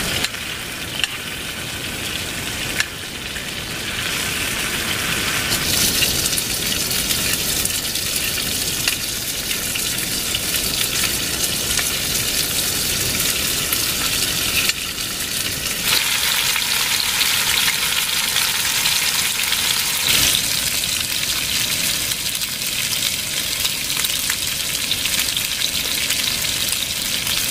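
Food sizzling and crackling as it is roasted in a pan on a small portable gas stove, with a spoon now and then stirring it. The sizzle gets louder about six seconds in and again about sixteen seconds in.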